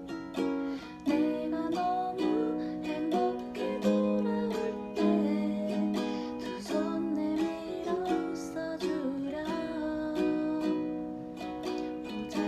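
Ukulele strummed in a steady rhythm, with a voice singing the melody over it.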